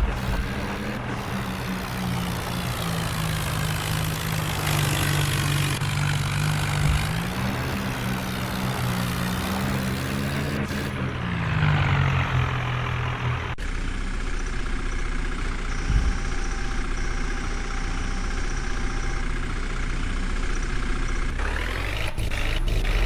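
Heavy diesel machinery engines running under load, the engine pitch rising and falling several times; about halfway through the sound changes abruptly to a steadier engine note.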